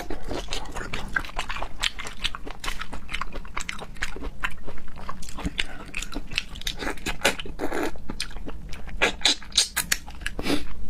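Close-miked chewing and biting of seafood: many quick, irregular wet crunches and smacking clicks.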